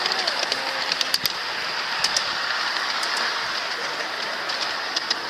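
Ride-on train running along its track: a steady rumble of the cars with sharp clicks of the wheels over the rail joints. It grows a little quieter near the end.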